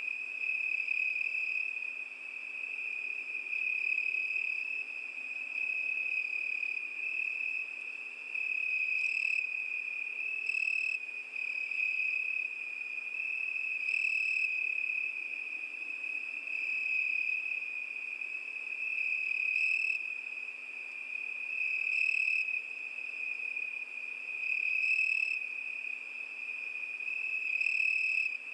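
Crickets singing: a continuous high-pitched trill that swells and fades every two to three seconds, with short higher chirps breaking in every few seconds.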